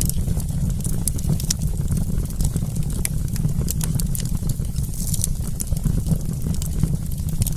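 Wood campfire crackling: frequent sharp pops and snaps scattered irregularly over a steady low rumble.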